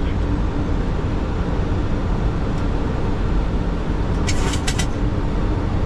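Steady rushing noise on a Boeing 737 flight deck during descent: airflow around the cockpit and engine noise. A brief cluster of sharp clicks comes about four and a half seconds in.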